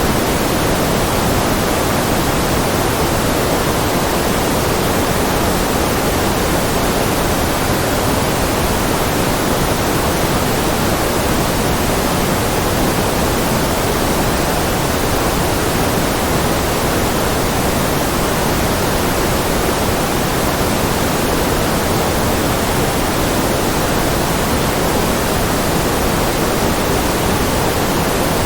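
Steady, unchanging synthetic noise, a constant hiss with most of its weight in the lower-middle range, like pink noise.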